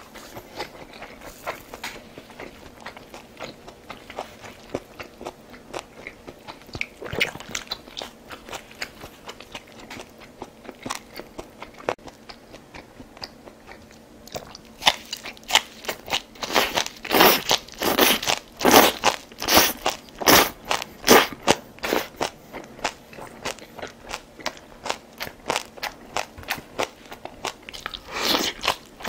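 Close-miked chewing of crunchy kimchi: a steady run of crisp crunches. It is fainter at first, then loud at about two bites a second from about halfway through, eases off, and is loud again near the end.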